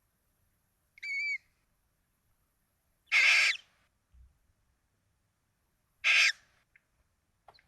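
Barn owls in the nest box calling: a short wavering, whistled cheep about a second in, then two loud rasping hisses about three seconds apart.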